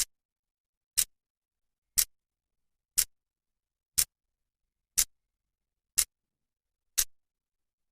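Clock's second hand ticking once a second, a sharp dry click with silence between the ticks.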